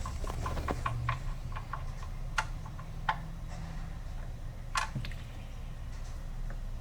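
Ratchet wrench clicking in short, irregular runs while loosening an oil pan drain plug, with a few louder clicks among them, over a low steady hum.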